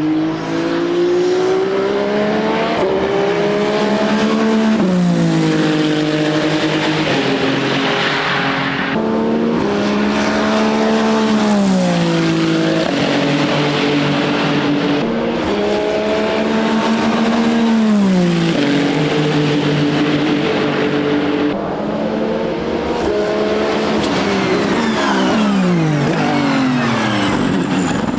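Ferrari 499P hypercar's twin-turbo 120-degree V6 running hard on track. Its pitch climbs and drops back again and again, then falls steeply several times near the end.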